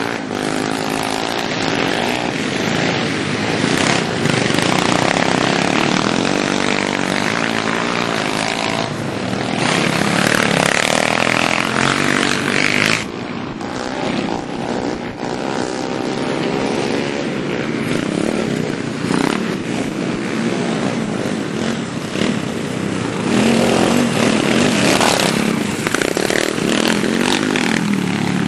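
Small pit bike engines running hard, their pitch rising and falling over and over as the riders work the throttle and shift.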